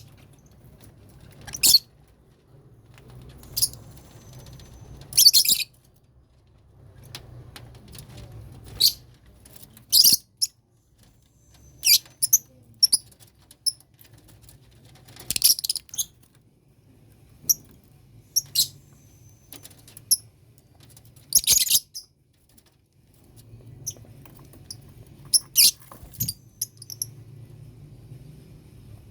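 Lovebirds in a colony cage giving short, high-pitched chirps and squeaks at irregular intervals, one every second or two.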